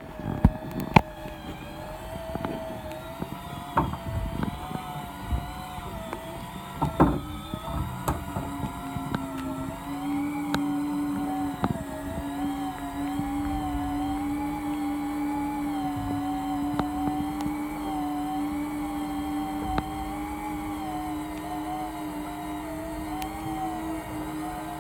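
Steady motor hum aboard a small fishing boat, its pitch wavering slightly. A few sharp knocks in the first seven seconds, and a second steady tone joins about nine seconds in.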